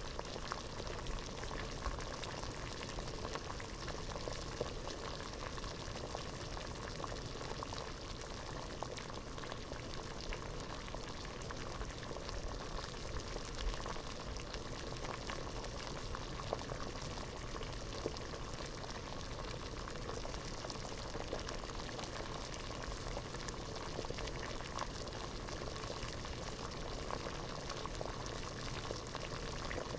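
Water at a rolling boil in a pot, a steady dense bubbling and popping that does not let up.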